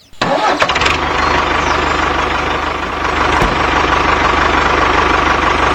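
Small engine of a homemade mini tractor cutting in abruptly just after the start, then running steadily with a fast, even firing rhythm.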